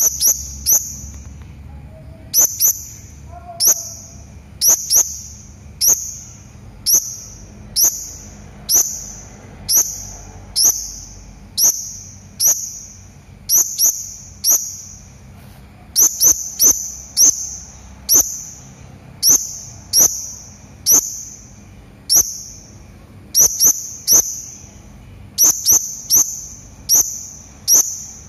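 Hanging parrot (serindit) giving short, shrill, high-pitched calls, each dropping slightly in pitch, repeated a little more than once a second, some in quick pairs.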